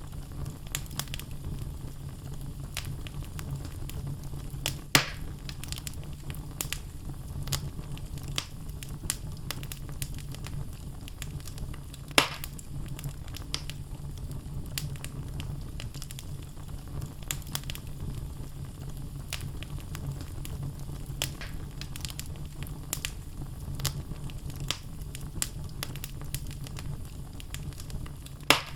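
Wood logs burning in a fireplace, crackling with frequent small snaps over a steady low rumble. Three louder pops stand out: about 5 seconds in, about 12 seconds in, and near the end.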